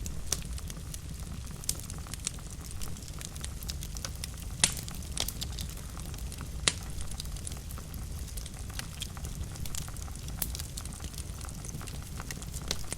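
Wood fire burning in a fireplace, crackling steadily with irregular pops over a low rumble; two sharper pops stand out, one a little before halfway and one about halfway through.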